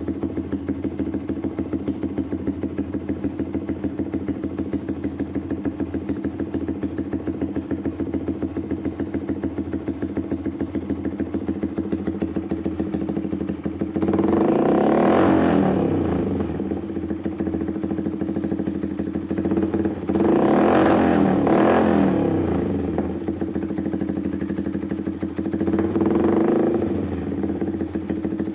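Motorcycle engine breathing through a Proliner aftermarket exhaust, idling steadily, then revved three times, about halfway through, about two-thirds through and near the end. Each rev lasts a second or two before dropping back to idle.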